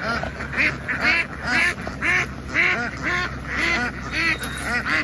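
A flock of domestic ducks quacking, loud calls overlapping about twice a second, over a low steady hum.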